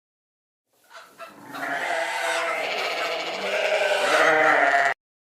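A farm animal's single long, drawn-out call, starting about a second in, holding steady for about three seconds and cutting off abruptly near the end.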